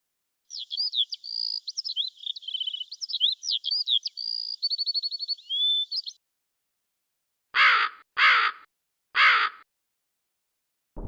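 A songbird sings a quick run of varied high whistles and trills for about six seconds. After a pause, a larger bird gives three loud harsh calls.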